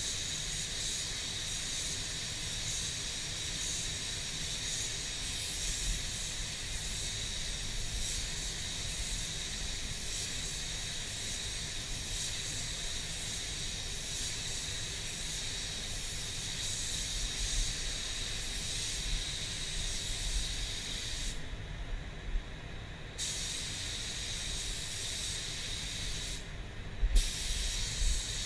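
Steady hiss of compressed air from a workshop air tool such as a spray gun or air blower. It cuts off twice near the end, once for about a second and a half and once briefly, with a few low bumps just before the end.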